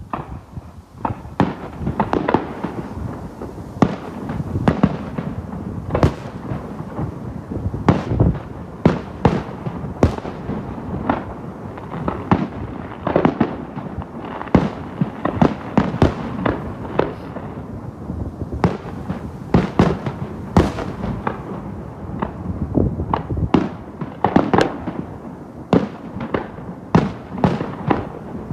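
Festive fireworks display: a rapid, continuous series of shell bursts, several bangs a second over a steady crackle.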